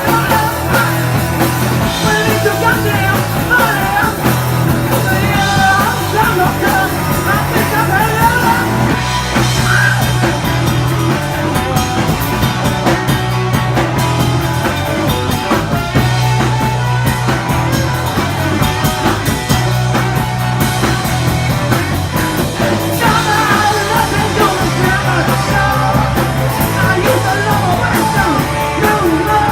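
Punk rock song with loud guitars, drums and bass, and shouted singing that drops out in the middle and returns near the end.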